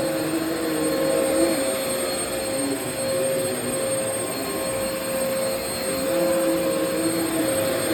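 Vacuum cleaner running steadily, a motor whine over the rush of air, its lower tone wavering in pitch now and then.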